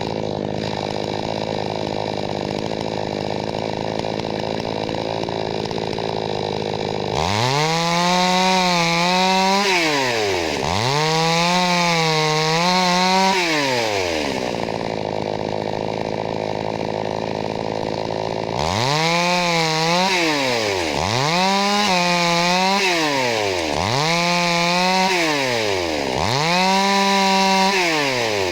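Two-stroke chainsaw engine idling, then revved up and let back down six times, each rev held for a couple of seconds: two revs after a long idle, a pause, then four revs in quick succession.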